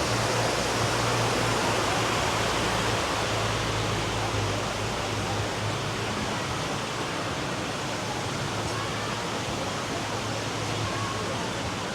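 River water rushing: a steady wash of noise, a little softer after about four seconds.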